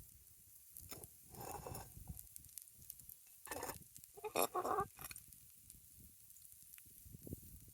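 Campfire crackling and popping, with three short rasping sounds about one and a half, three and a half and four and a half seconds in.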